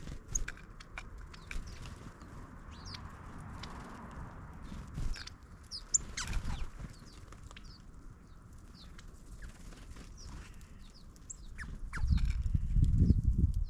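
Small birds chirping: many short, high calls scattered throughout over low background noise. Near the end a louder low rumble comes in and is the loudest sound.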